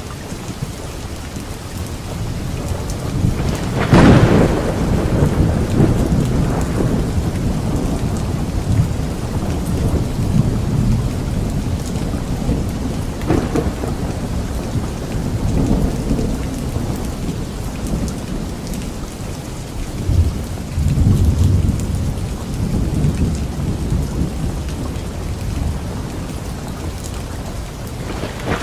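Steady rain with thunder: a sharp thunderclap about four seconds in followed by a long rumble, further rumbles through the middle, and another clap at the very end.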